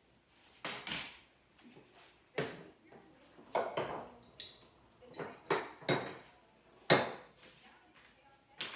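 Dishes and kitchenware clattering as they are handled and set down: about a dozen irregular knocks and clinks with brief ringing, the loudest about seven seconds in.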